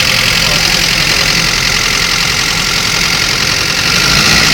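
Nissan 200SX S13 engine idling steadily with an unidentified noise that starts when the car is started, heard from the top of the engine. The owners wonder whether it could be a loose spark plug.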